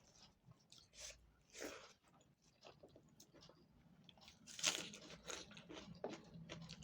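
Close-miked eating: chewing with crunchy bites of food, a few louder crunches early on and the loudest about two-thirds of the way in.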